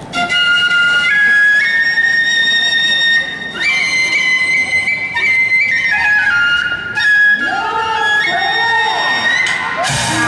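A high flute plays a slow solo melody of long held notes that step up and down, in the manner of the flute opening of a yosakoi dance song. In the last few seconds a voice sings long sliding notes beneath it.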